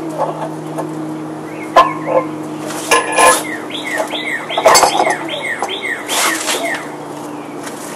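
A bird calling a quick run of falling whistled notes, about four a second, over a steady low hum, with several sharp knocks and clinks in between.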